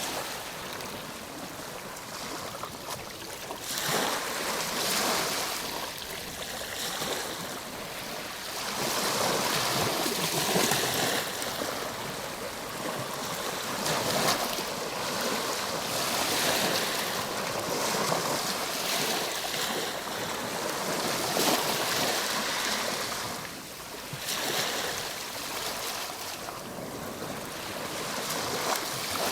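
Ocean waves breaking and washing up the shore, a continuous rushing that swells and fades in surges every few seconds.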